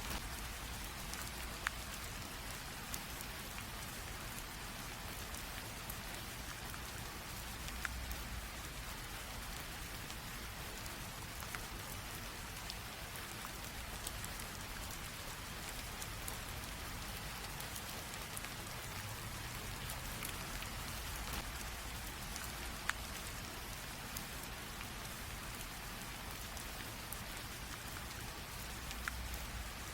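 Light rain falling steadily, an even hiss with scattered single drops ticking on a surface now and then.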